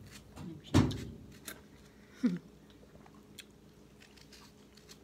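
A person chewing a mouthful of food at close range. A loud thump comes about a second in, and a brief falling vocal sound, like a short "mm", comes a little after two seconds. Faint mouth clicks follow.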